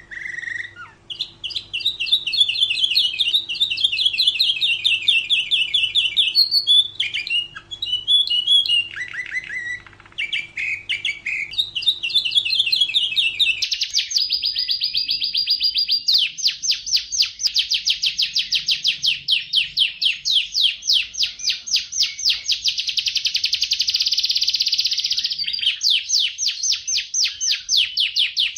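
Domestic canary singing a continuous song of rapid trills and rolls. About halfway through, a faint low hum drops out and the song turns to long, very fast, even trills.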